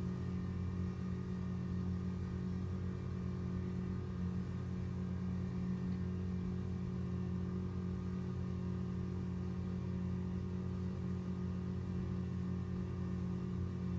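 Boat engine running at a steady speed, an even low hum that holds one pitch throughout.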